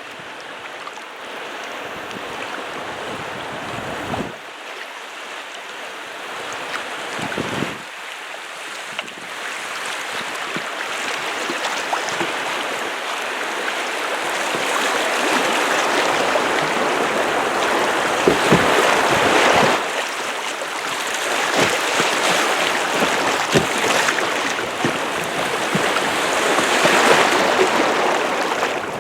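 Rushing river water, building steadily louder through the stretch, with a few short low thumps along the way.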